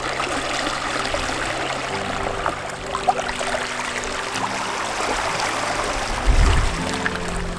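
Moving water under soft background music, with a short low thump about six seconds in.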